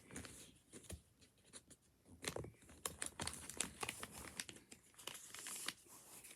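A sheet of paper rustling and crinkling in irregular crackles and clicks as it is folded and creased into a paper fortune teller.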